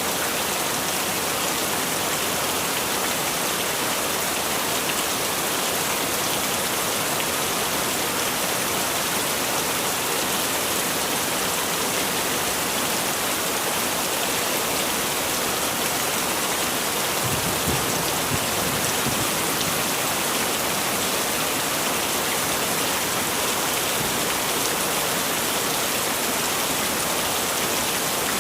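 Heavy rain falling steadily, a dense even hiss of drops, with a brief low rumble about two-thirds of the way through.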